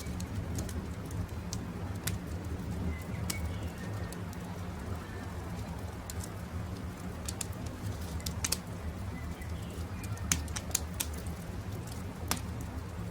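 Campfire crackling, with irregular sharp pops over a steady low rumble, while birds call faintly in the background.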